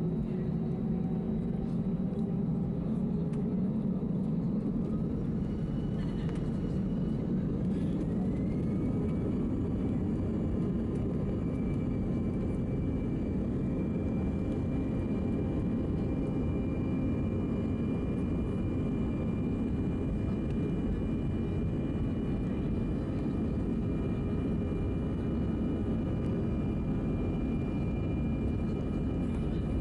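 Airbus A319's CFM56 jet engines heard from inside the cabin, spooling up: a whine rises in pitch over several seconds and then holds steady above a constant heavy rumble.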